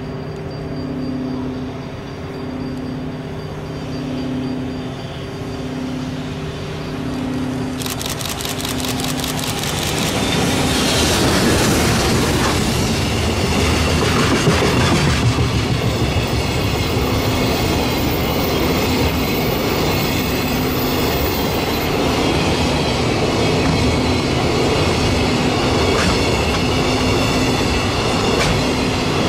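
A level-crossing warning bell ringing in a steady repeating pattern. From about ten seconds in, a train rushes past, its wheels clattering over the rail joints.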